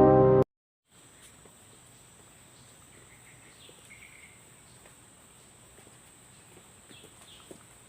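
Piano background music cuts off half a second in. Faint forest ambience follows: a steady high-pitched insect drone, a few faint bird chirps and small rustling ticks.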